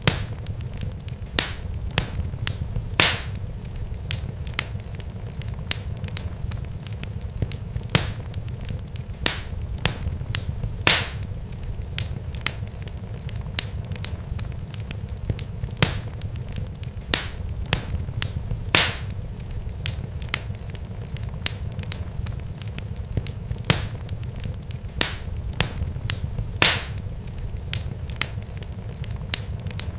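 Fire crackling: irregular sharp pops and snaps, a few louder ones, over a steady low rumble.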